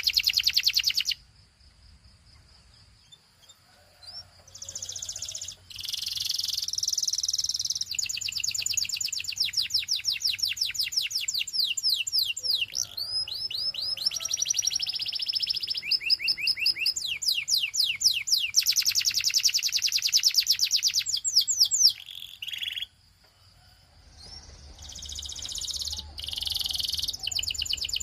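Canary singing: long runs of fast repeated notes and rolling trills, broken by a pause of a few seconds near the start and a shorter pause about five seconds before the end.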